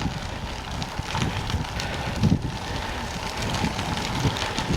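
Bicycle riding along a crushed-limestone trail: a steady rumble of tyres on packed gravel, with wind buffeting the microphone in irregular low gusts.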